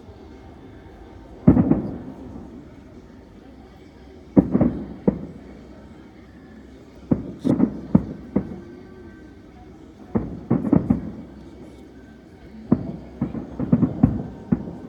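Aerial fireworks bursting overhead: five clusters of sharp bangs a few seconds apart, each cluster a quick string of reports with a short echoing tail.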